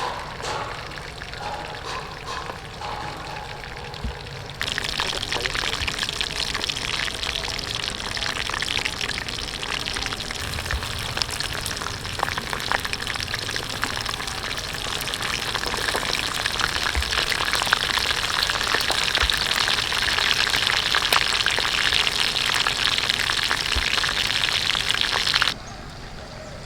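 Chicken drumsticks frying in hot oil: a dense sizzle full of fine crackles. It starts suddenly about five seconds in and stops suddenly shortly before the end.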